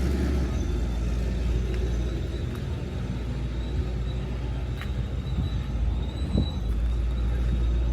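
Car engine running at idle, a steady low exhaust rumble.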